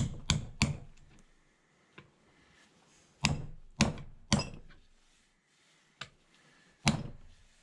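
Metal hammer blows driving a new seal into a VW T3 wheel bearing housing: sharp knocks with a short ring, in a burst of three, a second burst of three a few seconds later, and a single blow near the end, with a couple of lighter taps between.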